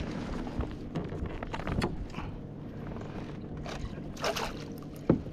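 A hooked smallmouth bass being fought and brought to a kayak. Scattered knocks and clicks, and short splashy bursts about four and five seconds in, sit over a low steady rumble.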